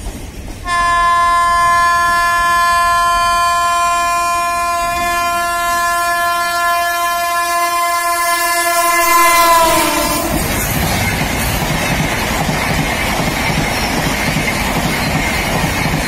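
WAP7 electric locomotive sounding one long, steady horn blast as it approaches; about ten seconds in the horn's pitch drops as the locomotive passes and the horn stops. The rushing rumble and wheel clatter of the express coaches going past at speed follows.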